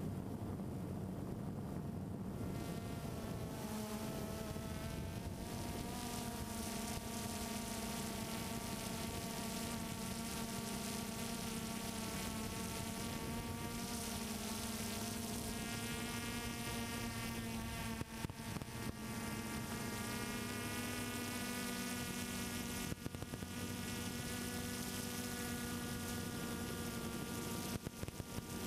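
Multirotor drone's motors and propellers buzzing steadily, heard close up, with the pitch of the hum shifting slightly now and then as the motor speeds change.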